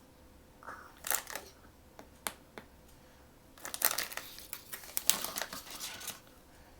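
Blind-box packaging crinkling as it is handled and opened by hand: scattered crackles at first, then a dense run of crinkling from about halfway in until shortly before the end.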